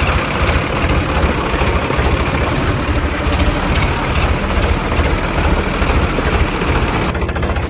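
Heavy diesel engine running steadily with a fast low chugging, the engine sound of a tractor towing a truck.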